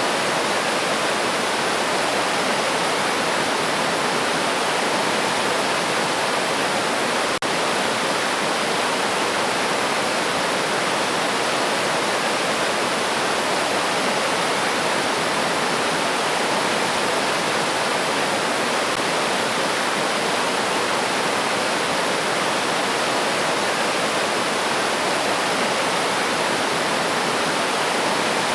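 River stream flowing, a steady rush of water with no let-up. A momentary dropout breaks it about seven seconds in.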